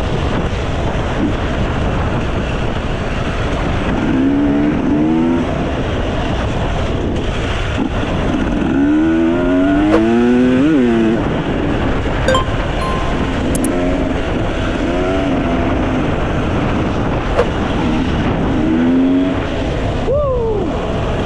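Enduro dirt-bike engine working along a trail, its pitch rising and falling as the throttle opens and closes several times, most strongly about halfway through. Underneath runs a steady rumble of riding noise.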